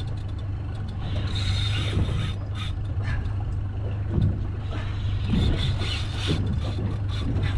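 Fishing reel working against a hooked fish on a jig, with bouts of rasping mechanical noise and scattered clicks over a steady low hum.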